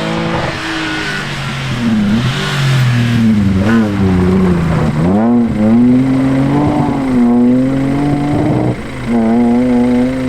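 Rally car engine revving hard under acceleration, its pitch climbing and dropping repeatedly with throttle and gear changes, with a brief break in sound about nine seconds in.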